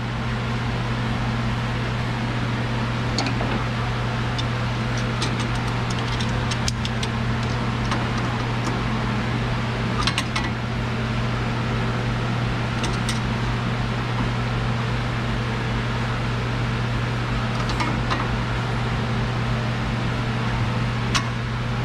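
Steady low machine hum throughout, with scattered light metallic clicks and clinks of hand tools on the van's front tie rod as the toe adjustment is locked down.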